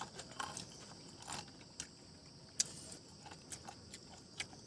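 Faint eating and handling sounds: about ten scattered light clicks and clinks, as utensils and food containers are handled during a meal, over a faint steady hiss.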